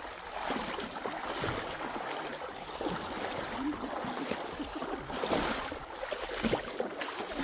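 Running water of a stream, with irregular splashes and knocks.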